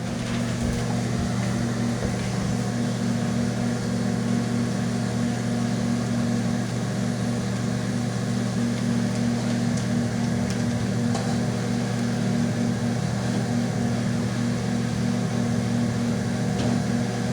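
Steady low hum of running machinery, unchanging throughout.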